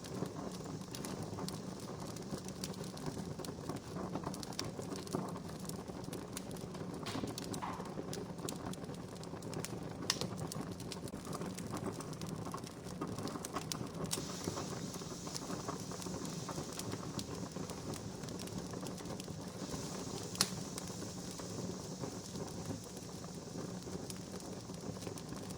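Wood campfire crackling steadily with a dense patter of small pops, and two sharper, louder pops about ten seconds and twenty seconds in.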